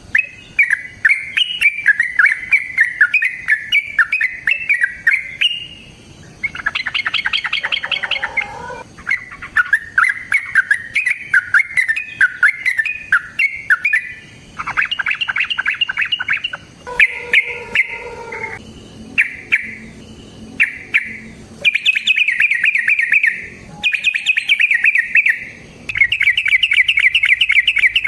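A caged bird calling in long runs of rapid, chattering notes, several of them a few seconds each with short pauses between, and a few harsher, lower squawks mixed in.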